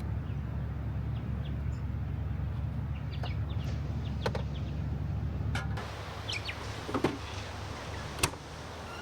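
Clicks, knocks and short squeaks of 4WD canopy and rooftop-tent gear being handled during setup, with the loudest knocks about seven and eight seconds in, over a steady low rumble that drops away about six seconds in.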